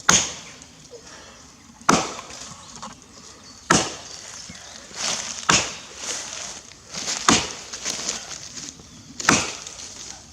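Axe chopping into a standing tree of fresh, green wood that is very hard to cut: six strikes, about two seconds apart.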